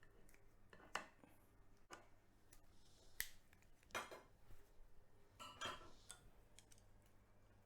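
Utensils tapping and clinking against plates and bowls, about six light, separate clicks spread over a few seconds.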